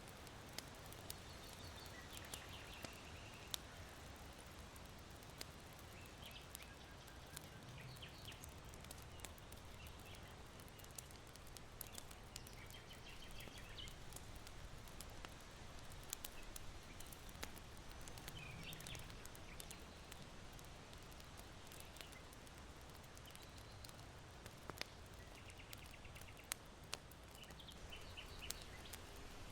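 Charcoal embers in an irori hearth crackling faintly, with sharp pops scattered throughout, over a steady wind hiss. Small birds chirp briefly every few seconds in the distance.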